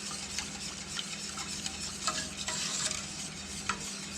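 Spoon stirring sugar-and-vinegar brine in a pot on the stove, with small scattered clicks against the pot over a steady hiss of the warming pan, heated just enough to dissolve the sugar.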